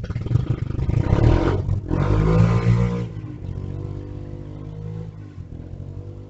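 A motor vehicle engine revving up loudly as it goes by, with a brief break about two seconds in, then running on more quietly.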